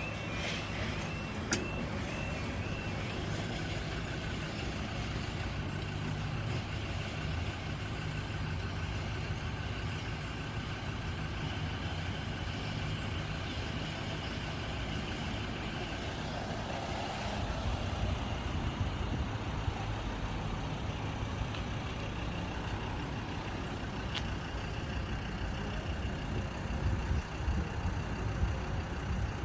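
Level crossing alarm sounding a repeating beep pattern that stops about three seconds in, over a steady low engine rumble of waiting road traffic.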